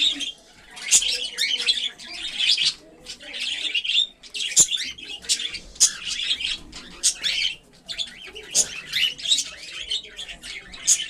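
Cockatiels calling in a rapid run of short, harsh chirps, one cluster after another.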